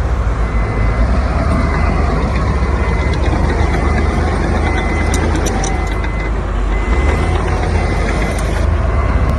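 Heavy diesel engine of construction machinery running with a steady low rumble, while a reversing alarm beeps over it again and again, signalling a machine backing up.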